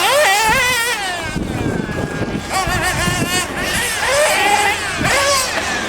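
Several nitro RC car engines running on a track, their high-pitched whine rising and falling quickly as the throttles are blipped, with more than one car sounding at once.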